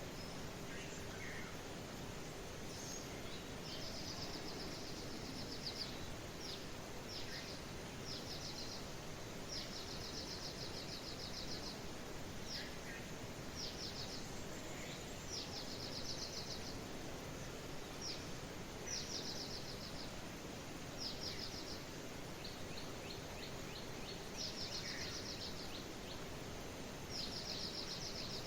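A small songbird repeating a short, fast, high-pitched chirping trill every second or two, over a steady background hiss.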